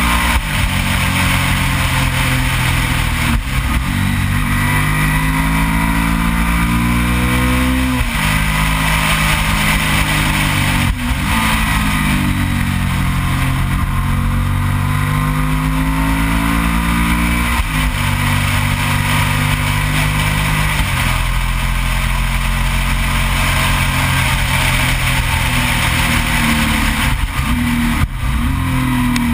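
Onboard sound of a Yamaha TDM 900's parallel-twin engine under way, its note repeatedly climbing in pitch and dropping back about half a dozen times. A steady rush of wind noise on the microphone runs under it.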